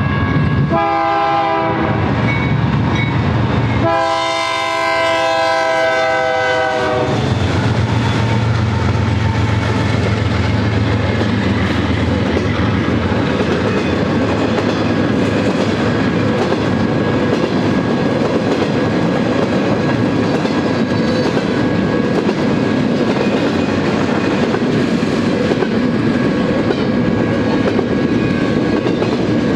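GE C44-9W diesel locomotive sounding its air horn for the grade crossing in two blasts, the second longer, with its engine rumbling past for a few seconds afterwards. Then comes the steady rumble and clickety-clack of double-stack container cars rolling through the crossing, with the crossing bell ringing throughout.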